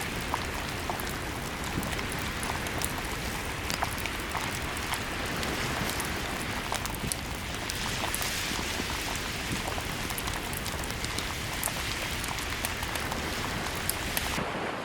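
Campfire wood crackling with scattered irregular sharp pops, over a steady wash of surf.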